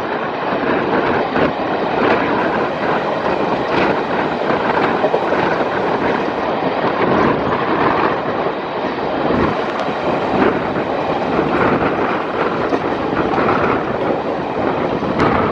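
Running train heard from the leading coach behind twin WDG-3A ALCo diesel locomotives: a steady mix of the locomotives' engine chugging and the coach's wheel and track noise, with faint clicks from the rails.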